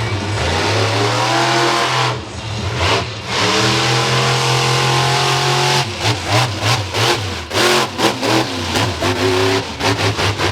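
Monster truck engine revving hard, its pitch climbing and holding at full throttle with brief lifts off the throttle. About six seconds in, it switches to a fast series of sharp throttle blips.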